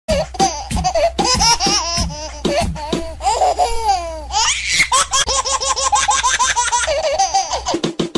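High-pitched laughter in quick repeated bursts, with a long fast run of even "ha" pulses in the second half.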